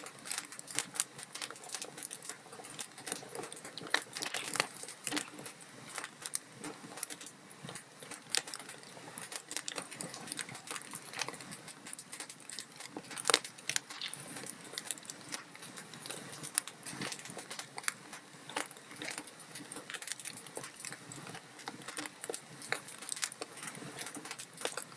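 Log fire crackling, with many small irregular pops and snaps over a soft hiss, and one sharper, louder pop about halfway through.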